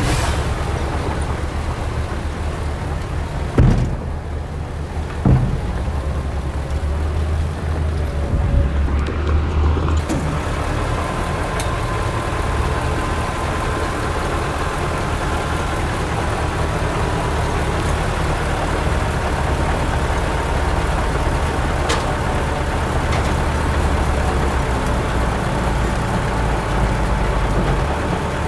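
Heavy diesel earthmoving machinery running steadily, its engine sound low-pitched, with two sharp knocks, the first about three and a half seconds in and the second under two seconds later.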